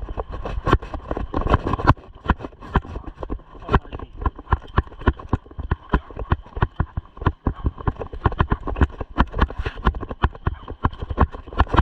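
Mountain bike jolting along a rough dirt trail: a fast, irregular clatter of knocks and rattles from the bike over a low rumble.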